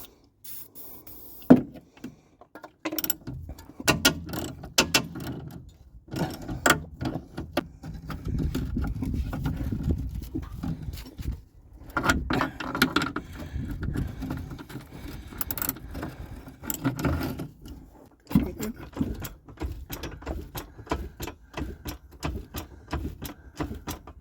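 Hand tools on a car's front suspension: scattered metal clinks and knocks with stretches of scraping and rumbling, then a fast run of clicks near the end.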